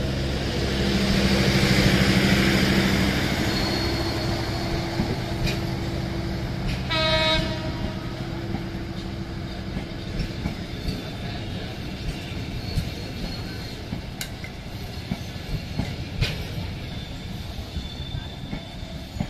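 EMD GT42ACL diesel-electric locomotive passing under power, its 12-cylinder 710-series prime mover running loud and peaking about two seconds in before fading. A short horn blast sounds about seven seconds in. After that the train rolls by with a steady rumble and scattered wheel clicks over rail joints.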